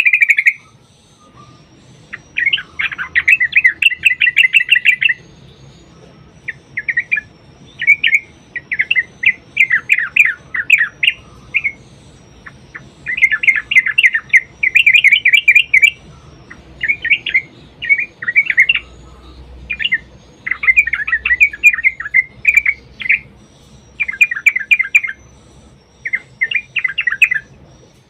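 Yellow-vented bulbul (trucukan) singing in long rapid-fire chattering phrases of bubbling notes, about a dozen bursts of one to three seconds each with short pauses between them.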